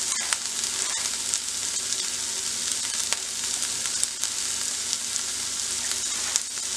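Chopped garlic, ginger and onion sizzling in oil in a kadhai over a high gas flame: a steady frying hiss, with a few light clicks.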